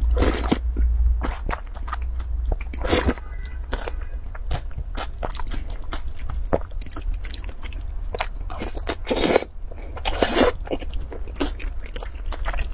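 Close-miked eating sounds: a sip from the bowl at the start, then crunchy chewing made up of many short crunches and clicks, with a few longer noisy bursts along the way.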